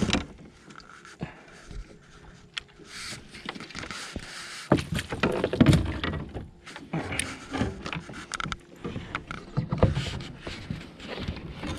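Irregular knocks and clatter of handling on a fishing kayak, busier and louder from about five seconds in.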